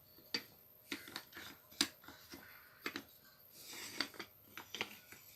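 Light clicks and taps of metal parts of a Makita angle grinder being handled and fitted together by hand, about a dozen short separate clicks.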